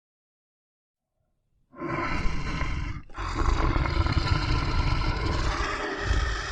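Big cat roaring: after a short silence, a loud, rough roar starts a little under two seconds in, breaks briefly about three seconds in, then goes on.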